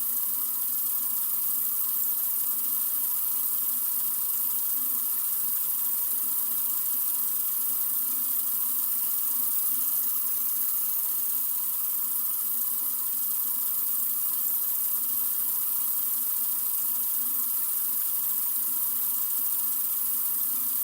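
Sink faucet running in a steady, unbroken stream: a constant hiss that never changes.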